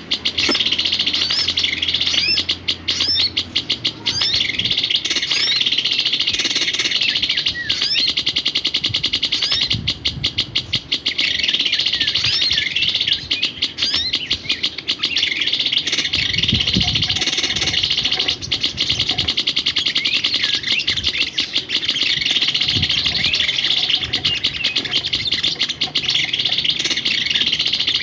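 Small birds chirping: a dense, continuous trill with short rising notes repeated over and over.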